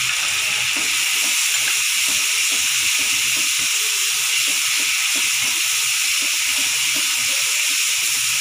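Onion, tomato and ground-spice masala sizzling steadily in hot mustard oil in a non-stick kadai as it is stirred with a wooden spatula.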